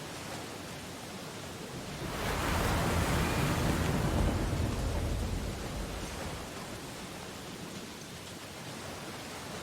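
Ocean waves on a beach. A wave breaks about two seconds in, swells to its loudest, then washes back and fades over a few seconds, over a steady hiss of surf.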